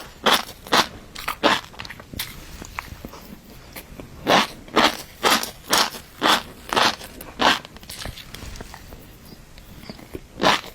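Close-miked chewing of a mouthful of fish roe, crunching and popping in an even rhythm of about two chews a second, in runs broken by short pauses.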